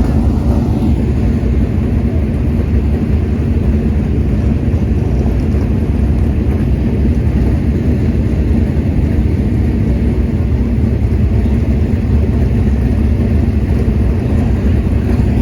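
Steady low engine rumble from a motor vehicle running at an even speed, with no rise or fall in pitch.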